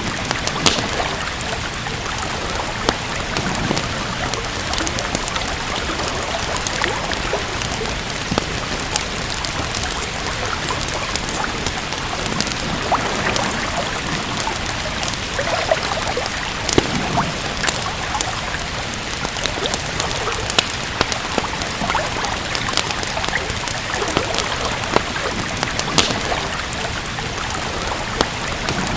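Steady rain with trickling, running water, overlaid by scattered sharp pops and crackles of a wood fire burning in a fireplace.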